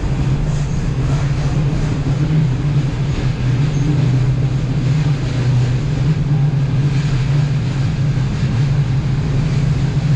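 Taiwan Railways local train running along the track: a steady low rumble and hum of even loudness.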